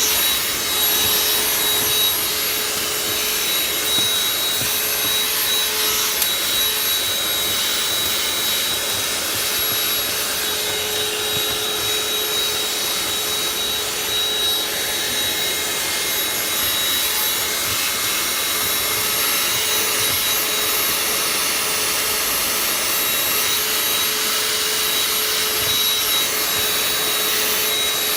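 Vacuum cleaner running steadily at full speed: a high, even motor whine over the rush of sucked air while a car's interior is vacuumed.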